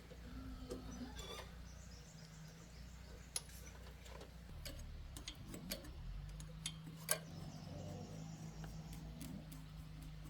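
Faint scattered clicks and taps over a low steady hum, the two sharpest about three and a half and seven seconds in.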